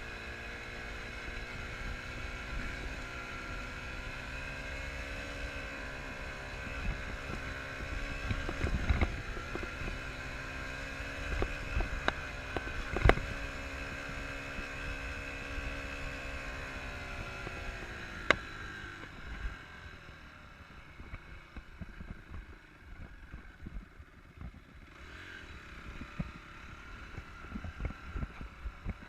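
Enduro dirt bike engine running, its revs rising and falling, with wind on the microphone and several sharp knocks. About two-thirds of the way through the engine note drops away, leaving a quieter rumble and thuds.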